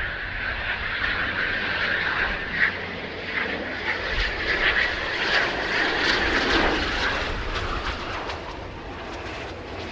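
Military aircraft engine noise: a steady, loud rushing sound with a low rumble underneath that eases off near the end.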